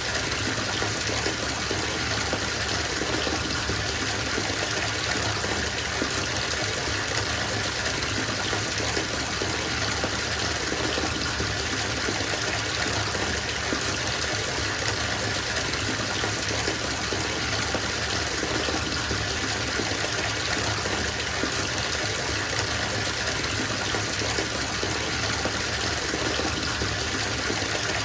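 Bathtub filling from the tap: a steady gush of running water into the tub, unchanging throughout.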